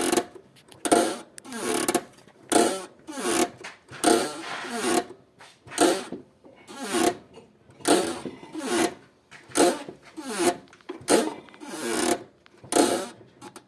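Squeaking from a 2007 Suzuki Swift's manual gearbox and clutch as the clutch pedal is pumped again and again: a sliding squeal about every 0.8 s, with each press. The cause is unknown; the owner is asking whether anyone has met the problem.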